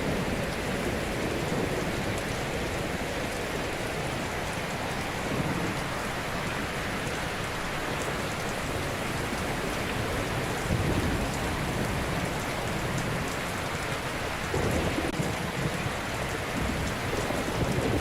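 Ocean surf: a steady hiss of waves washing on the shore, swelling louder with a deeper rush three times in the second half as waves break.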